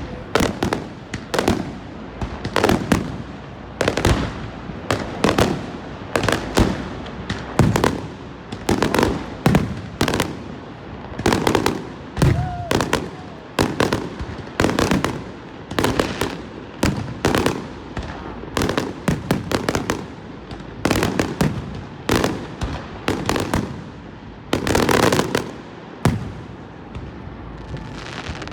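Aerial fireworks exploding in a steady barrage, about one to two booming bangs a second, each trailing off in a short echo.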